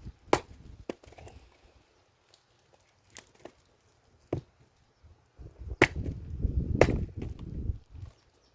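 Firewood being split with an axe: a few sharp chopping blows into wood, the two loudest about a second apart in the second half.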